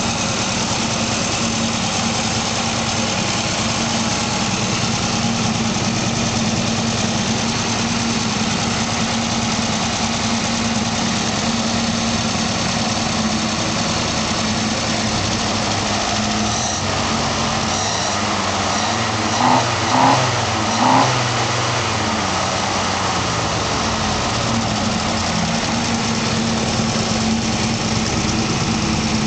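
Unrestored 1956 Plymouth wagon's V8 engine idling steadily, with three short louder surges about two-thirds of the way through.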